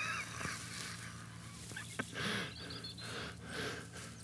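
Faint outdoor birdsong: a wavering call that fades out just after the start and short high chirps about two and a half seconds in, with a single soft tap about two seconds in.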